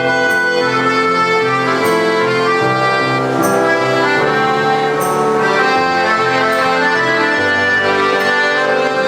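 A school instrumental ensemble playing a song: held chords with a melody over a stepping bass line, and a light high stroke about every second and a half.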